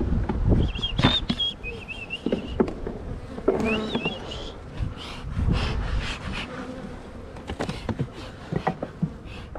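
Honeybees buzzing around opened hives, with scattered knocks and clatter from hive boxes and equipment being handled.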